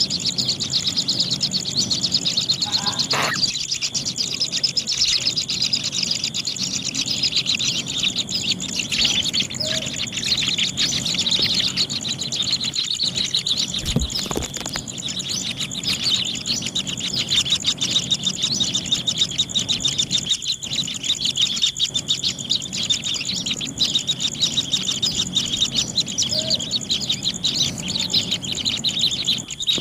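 Kingfisher nestlings chirping without a break, a dense run of rapid high chirps over a steady high-pitched buzz, with a soft knock about 14 seconds in.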